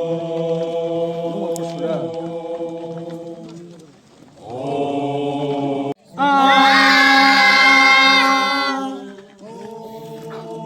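A group of men's voices chanting in unison, holding long steady notes in several phrases; one abrupt break about six seconds in, followed by a louder, higher phrase, then a quieter one near the end.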